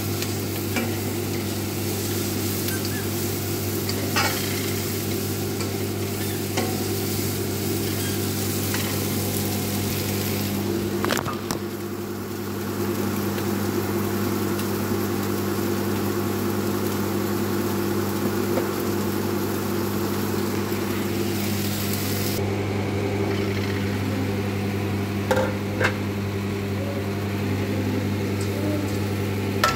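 Chicken pieces and chopped carrot, broccoli and bell pepper sizzling as they fry in olive oil in a non-stick pan, with a steady low hum beneath and a few light clicks and taps. The sizzle turns duller about two-thirds of the way through.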